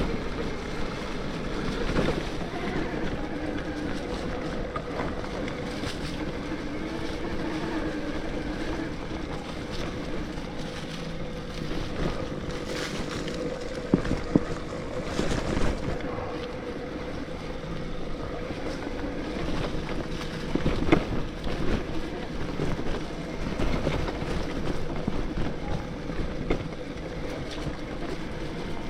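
Electric mountain bike with a 72V Bafang BBSHD mid-drive motor being ridden on a trail: a steady motor whine under wind rushing over the microphone, with a few sharp knocks along the way.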